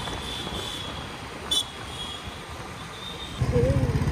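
Steady wind and road noise from riding, with one short click about a second and a half in. Near the end the Royal Enfield Classic 350's single-cylinder engine comes in loud with a fast, even thumping beat.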